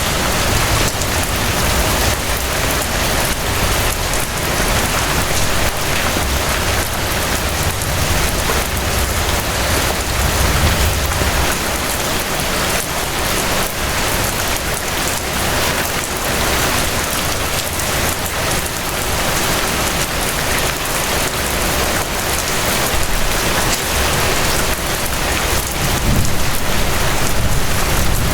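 Steady rain falling, a dense even patter of drops, with a low rumble underneath that swells about ten seconds in and again near the end.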